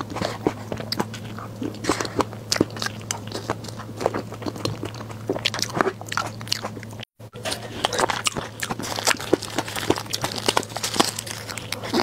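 Close-miked chewing and wet mouth sounds of someone eating soft cream cake, with many small smacks and clicks over a steady low hum. The sound drops out for a moment about seven seconds in.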